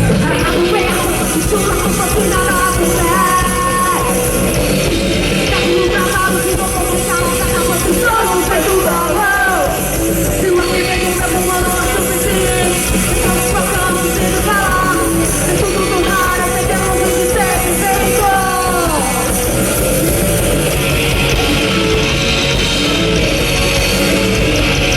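Live rock band playing at full volume, distorted electric guitars and drums under a sung vocal line, the voice strongest in the middle section.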